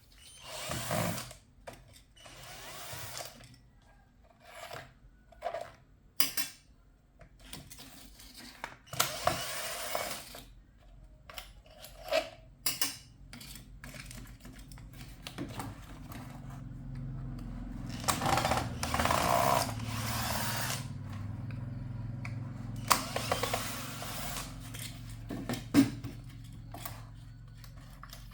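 Clicks, knocks and short scrapes of hands working on a small device. From about halfway a small motor runs with a steady low hum while the handling noises go on.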